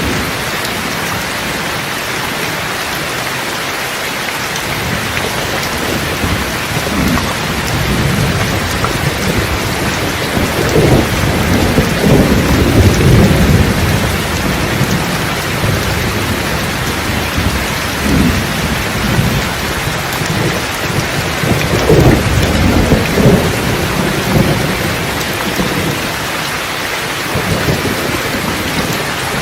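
Steady rain with rolling thunder: a long low rumble builds and peaks in the first half, and a shorter roll comes about three quarters of the way through.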